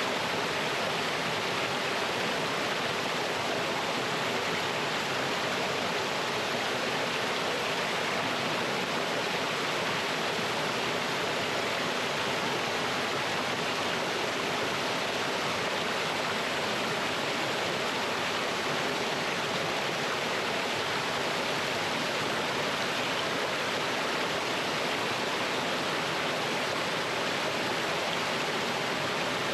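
Mountain stream flowing over rocks in a small waterfall: a steady, unbroken rush of water.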